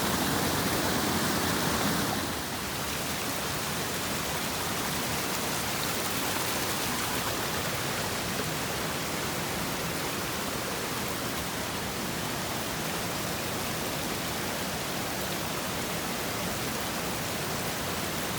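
Steady rush of running water from storm runoff pouring down after the typhoon, slightly louder for the first two seconds.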